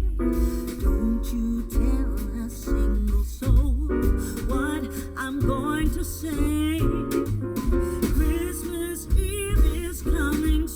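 A song with a singing voice over guitar and strong bass, played back through a car audio system and heard inside the car's cabin.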